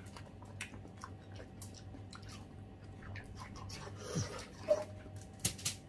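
Several people biting into and chewing juicy watermelon slices close to the microphone: scattered wet crunches and mouth clicks throughout, with a sharper, louder click near the end.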